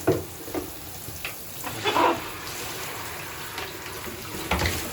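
Running water from a tap or shower, a steady hiss, with a few short louder sounds over it, the clearest about two seconds in.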